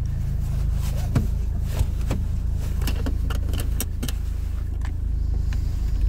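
Renault Laguna III 2.0 dCi four-cylinder turbodiesel idling steadily on a cold start, heard inside the cabin. A few light clicks sound over the idle.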